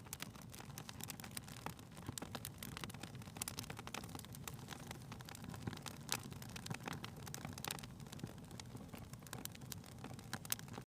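Wood fire burning in a fireplace: a steady low rumble of flames with irregular crackles and pops from the burning logs, cutting off abruptly near the end.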